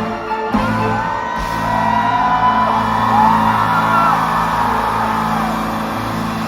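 Live concert music over the hall's sound system, with many high voices from the audience screaming and whooping over it for the first few seconds.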